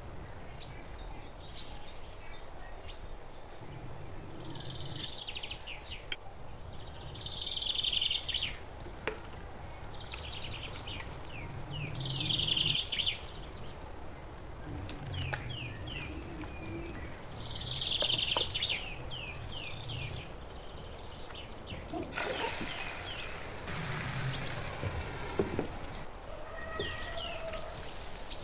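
Birds chirping in short bursts every few seconds over a steady background hum, with a stretch of hiss about two-thirds of the way through.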